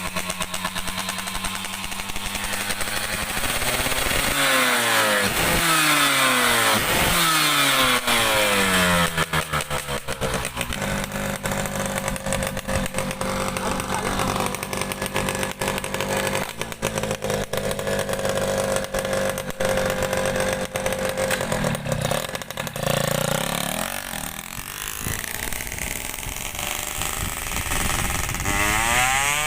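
Yamaha F1ZR two-stroke motorcycle engine, bored to 116 cc, being revved while it is tuned: steady at first, then blipped up several times, held at high revs for about ten seconds, dropped back, and revved up again near the end.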